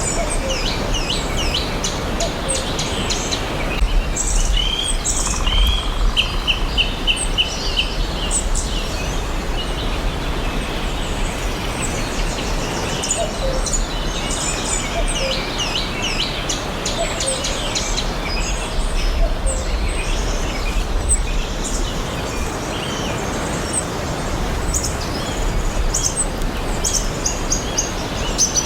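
Several forest birds chirping and singing, many short rising and falling calls overlapping, with a quick run of about a dozen repeated notes around six seconds in. A steady background hiss and low rumble sit underneath.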